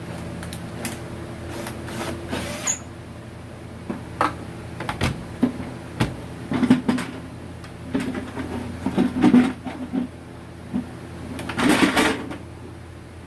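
Irregular clicks, knocks and short rattles of hard objects being handled and set down, with a longer rattling scrape about twelve seconds in, over a steady background hum.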